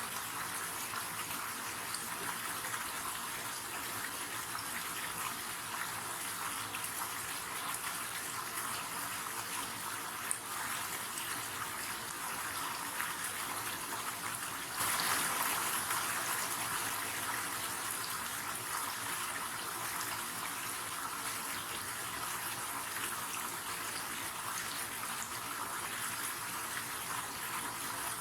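River water running, a steady rushing hiss that swells louder about halfway through and then eases back.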